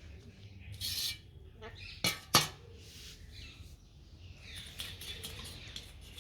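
Pet Indian ringneck parrot moving about with small sounds: a brief rustling hiss about a second in, two sharp knocks in quick succession at about two seconds, then faint scratchy chirps.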